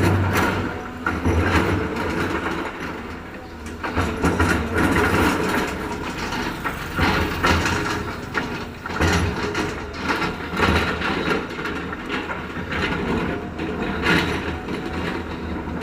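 Heavy construction machinery working: a diesel engine running steadily under irregular metallic clanks and knocks.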